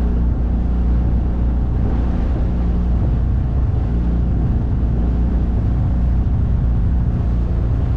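9.8 hp outboard motor running steadily at fairly low throttle, a low even drone heard from aboard the small boat it drives.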